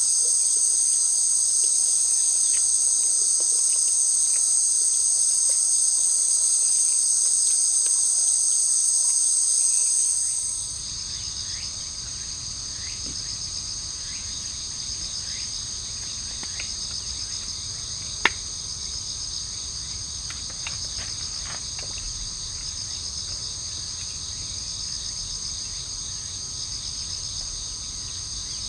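A chorus of crickets and other insects trilling steadily at a high pitch. About ten seconds in, the sound shifts: the highest, loudest trill drops back and a low rumble comes in under the insects, with one sharp click a little past the middle.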